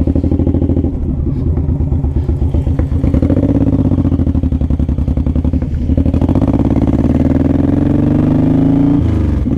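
Suzuki Boulevard M109R's big V-twin engine pulling away under throttle, heard from inside the rider's helmet. It climbs in pitch through a gear and drops sharply near the end as he shifts up.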